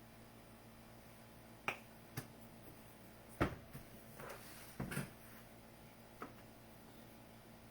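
A few faint, sharp clicks and knocks spread over several seconds, with a brief rustle in the middle, from dishes and a honey bottle being handled.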